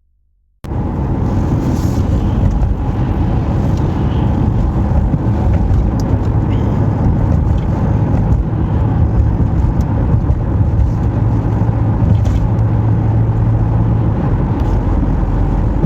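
Steady low rumble of a car's engine and road noise as heard inside a moving car, starting abruptly about half a second in.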